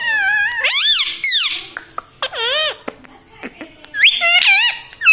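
Ring-necked parrot making high, wavering calls in three bouts.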